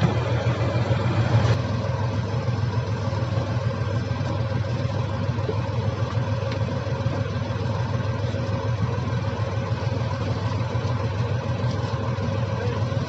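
Diesel engine of heavy earth-moving machinery running steadily, with a strong low hum and a faint steady whine; it is a little louder in the first second and a half, then evens out.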